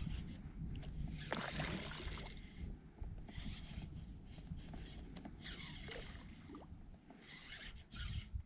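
Water splashing and rubbing against a fishing kayak's hull in short bursts, over a steady low rumble of wind on the microphone.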